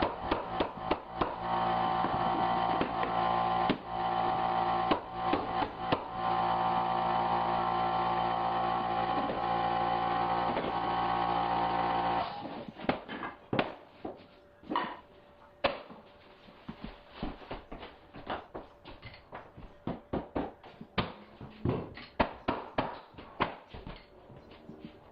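A motor hums steadily under a run of knocks and clicks, then shuts off abruptly about halfway through. After that come scattered knocks and taps from work on the hardwood flooring.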